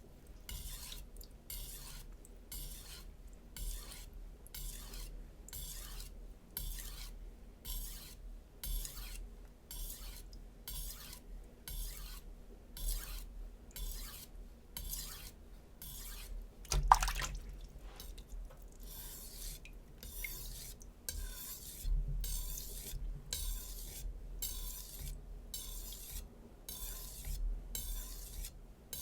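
A HAP40 steel chef knife being stropped on a whetstone: an even run of light scraping strokes, a little more than one a second, with one louder knock about two-thirds of the way through.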